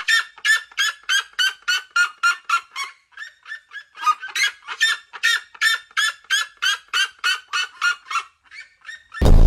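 A bird calling in a fast series of short, harsh calls, about four a second, breaking off briefly around three seconds in, then starting again and thinning out near the end.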